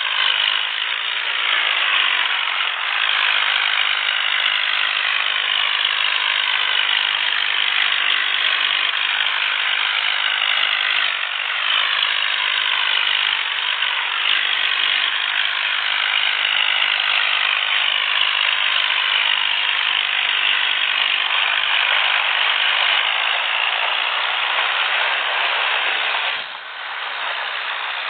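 Diesel tractor engines, a Swaraj 855 and a John Deere 5050D, running hard and rattling under heavy load as they pull against each other. The sound is loud and steady, with a brief drop near the end.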